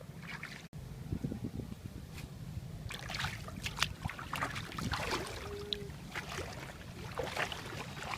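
Water splashing and sloshing in shallow floodwater, in short irregular bursts that grow busier after about three seconds, over a steady low rumble.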